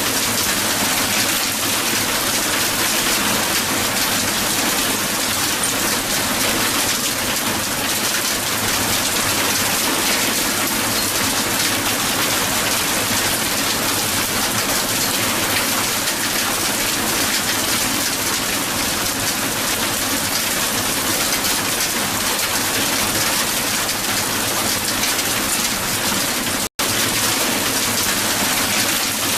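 Heavy hail falling and pattering densely on a hard surface in a steady, unbroken hiss of small impacts. It cuts to silence for an instant about 27 seconds in, then goes on as before.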